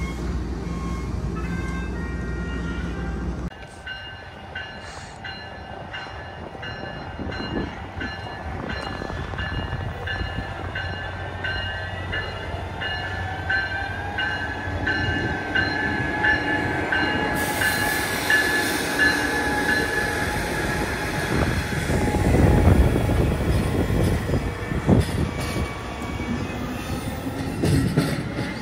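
A passing train: wheels clicking over rail joints under several high, steady tones, with the rumble growing louder about three-quarters of the way through. A steady low hum cuts off suddenly about three seconds in.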